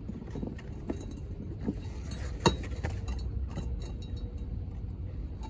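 Light metallic clinks and knocks of tools and equipment being handled, a few scattered strikes with one sharper knock about two and a half seconds in, over a steady low rumble.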